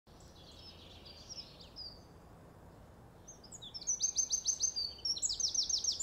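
Songbirds singing: a soft warbling phrase near the start, then from about three seconds in a louder, brisk song of quickly repeated high notes.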